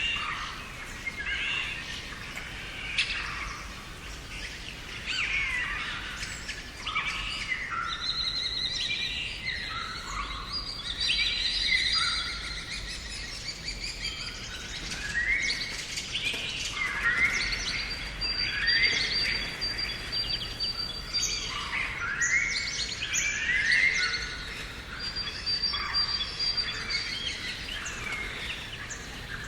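Several songbirds singing and calling at once: overlapping chirps and short rising and falling whistles with the odd held high note, in a continuous garden chorus.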